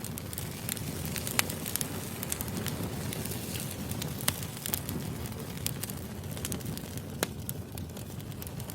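Firewood burning: a steady low rumble of the fire with sharp crackles and pops scattered irregularly through it, a few standing out louder.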